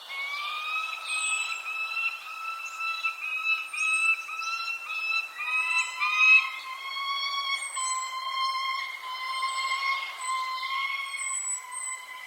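Birds singing: repeated short, high, falling chirps over a louder continuous whistle-like tone that wavers in a quick pulsing rhythm, then settles into a steadier, slightly lower tone about halfway through.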